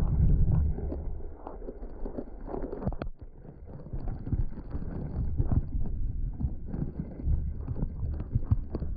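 Heavy rain with wind buffeting the microphone, and irregular sharp taps and knocks throughout; the sound drops out briefly about three seconds in.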